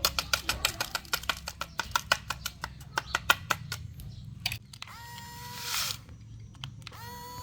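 Toy dump truck: rapid plastic clicking, about eight to ten clicks a second for the first half. Then a steady electronic tone sounds briefly about five seconds in and again near the end.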